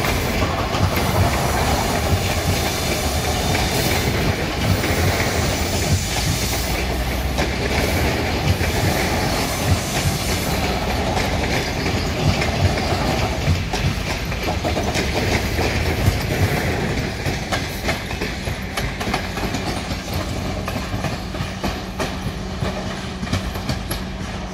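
Passenger train coaches rolling past as the train pulls out, their wheels clattering rhythmically over the track. The clatter gets quieter over the last several seconds as the tail of the train moves away.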